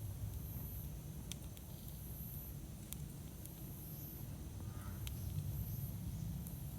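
Wood fire burning: a steady low rumble with a few sharp crackles and pops, about four of them, spaced a second or more apart.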